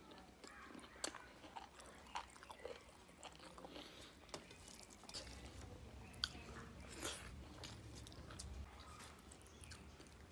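Quiet close-up chewing of rice and curry with small wet mouth clicks, mixed with soft squishing of fingers pressing rice together on a steel plate.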